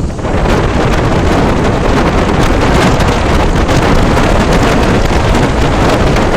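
Wind rushing over the microphone of a motorcycle riding at speed: a loud, steady rush of noise with a heavy low rumble.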